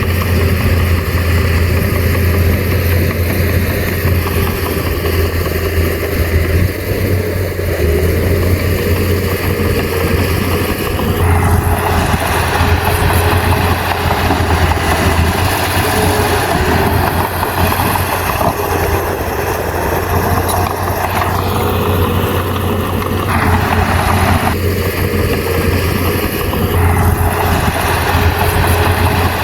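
A bulldozer's diesel engine running steadily with a deep, constant hum. About a third of the way in, a rougher, noisier layer joins, and it drops out briefly twice near the end.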